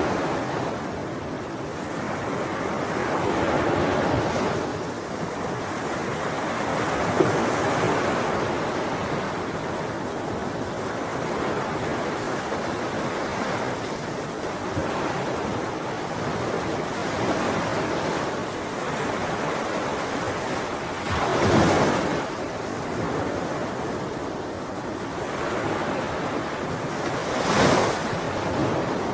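Ocean waves washing on a shore: a steady surf that swells and ebbs, with two louder breakers crashing in the latter part.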